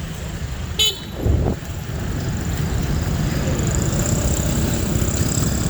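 A motor vehicle running steadily with a low rumble, with a brief high-pitched squeak or toot a little under a second in and a low thump just after.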